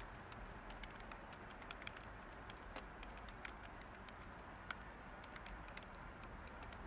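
Light typing on a computer keyboard: irregular soft keystroke clicks, one a little louder near the end, over a steady background white-noise hiss.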